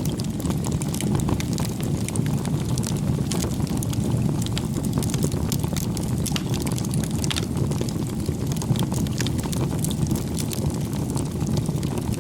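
Wood campfire burning: a steady low rush with frequent small crackles and pops.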